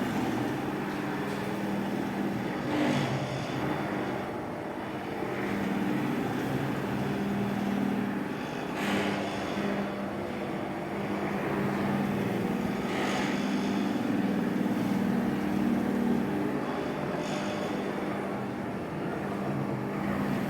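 Electric floor-cleaning machine running steadily, its motor humming with a slightly wavering pitch and a few brief hissing swells.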